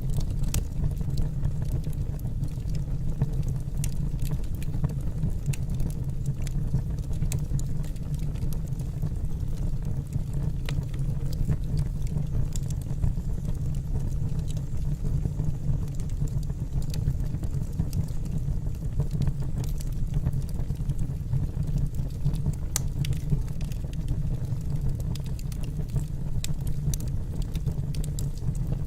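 Wood fire burning in a fireplace: a steady low rumble from the flames, with frequent small crackles and pops from the burning logs.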